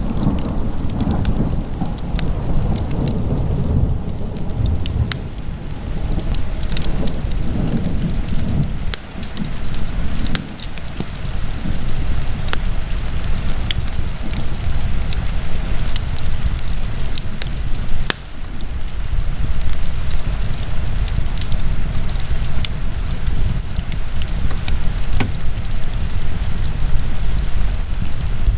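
Wood fire burning in a fireplace: a steady low rush of flames with scattered sharp crackles and pops throughout.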